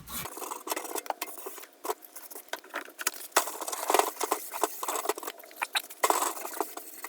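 Hand wiping and scrubbing the metal Craftsman toolbox with cleaner: irregular light ticks, taps and scuffs in quick, uneven succession.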